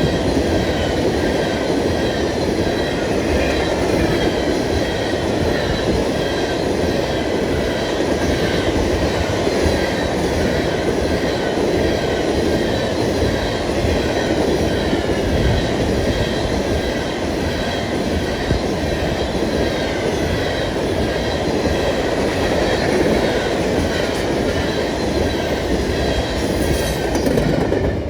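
Long freight train of empty ethanol tank cars rolling past at a steady pace: a continuous loud rumble of steel wheels on rail, with clickety-clack over the joints and a faint, wavering high squeal from the wheels.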